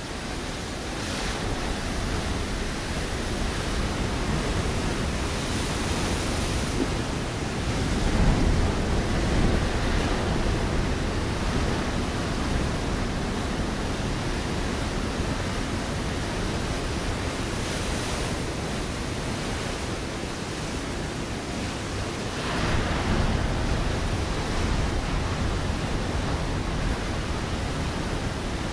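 Ocean waves breaking against a rocky shore: a steady wash of surf that swells with a louder breaker about eight seconds in and another near twenty-three seconds, with wind on the microphone.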